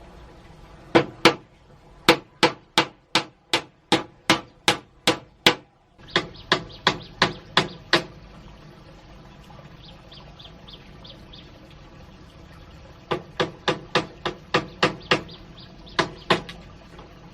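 Hard, sharp blows struck in quick runs of about three a second, like a hammer driving something, with pauses between the runs.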